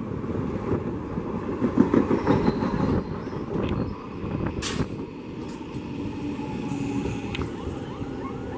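Passenger train coaches passing close at speed, their wheels rumbling on the rails; about three seconds in this gives way to the quieter sound of a train approaching from further off, with a single sharp clank near the five-second mark.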